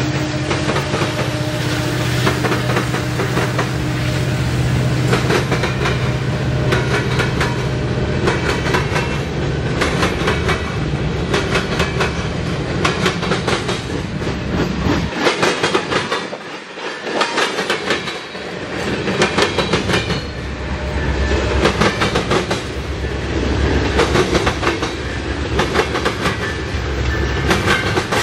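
Union Pacific diesel freight trains passing close by. First a locomotive's steady engine hum, then the wheels of the rolling freight cars clicking over rail joints in a steady clickety-clack. The sound dips briefly about halfway through, then the clacking of a second passing train picks up again.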